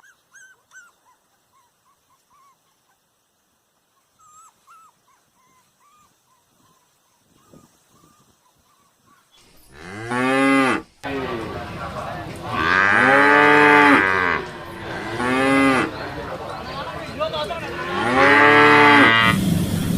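Cows mooing: four long, loud moos in the second half, after a quiet first half with only faint high chirps.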